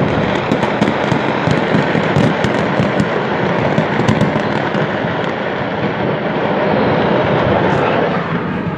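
Mass of fireworks going off at once in a burning fireworks market: a dense, continuous crackle with many sharp cracks, thickest in the first half and thinning out later.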